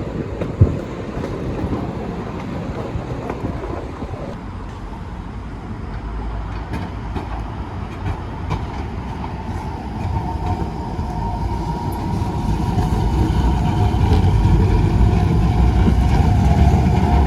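Bombardier NGT6DE tram running on its rails, growing louder over the second half as a steady high whine comes in about ten seconds in.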